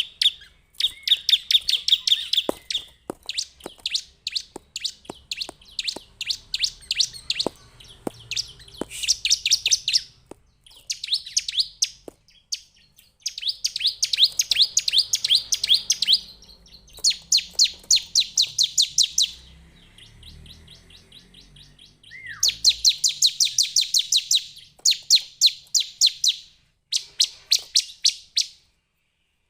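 Bar-winged prinia (ciblek) singing: bursts of a couple of seconds each of rapid, high, repeated chirping notes, separated by short pauses. A few sharp clicks sound in the first third.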